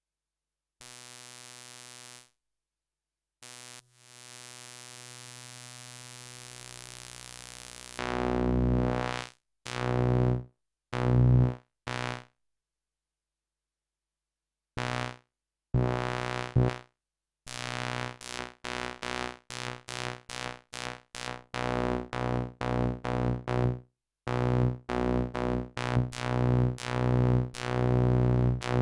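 Sequential OB-6 analogue synthesizer playing low notes through a patch with distortion added. It starts with two quiet held notes, then louder separate stabs, and from about halfway in a fast repeated line of short notes, several a second.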